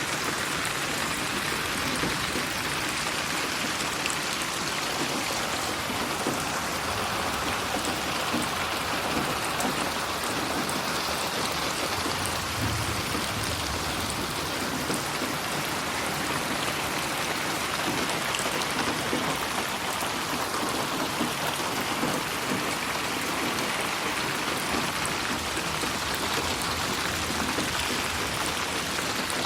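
Steady rain falling on a surface, a dense even patter with scattered individual drops, panned around in '8D' spatial audio.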